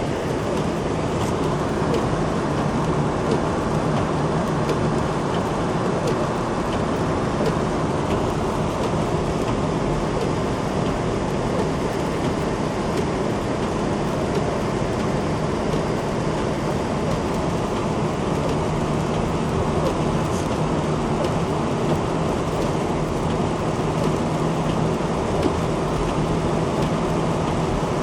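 Steady road noise of a car driving on a wet, slushy road: constant tyre hiss with a low engine hum underneath.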